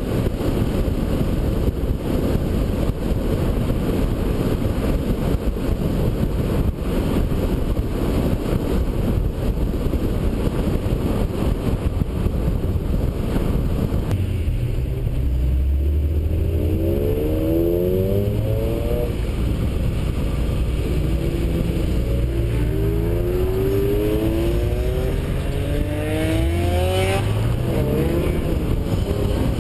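Acura NSX's V6 driving at speed under a heavy rush of wind and road noise. About halfway through the rush drops away and the V6 is heard accelerating, its pitch rising in several pulls with short drops between at the gear changes.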